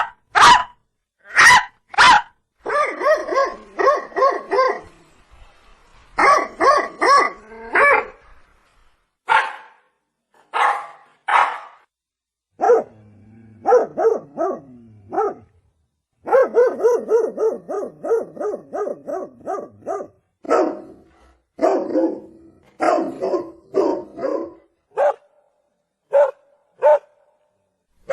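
Dog barking over and over: single barks and quick runs of several barks in a row, separated by short pauses.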